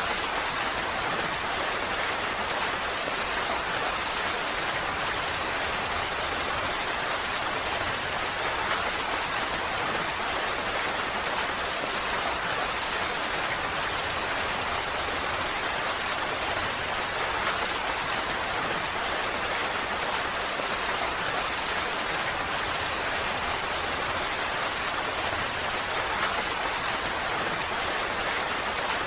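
Steady rain falling, an even hiss of rain with faint scattered drop ticks, holding the same level throughout.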